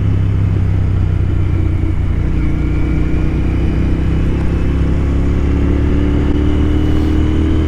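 Royal Enfield Continental GT 650's parallel-twin engine running under way at cruising speed, its pitch rising slowly from about two seconds in as the bike gains speed.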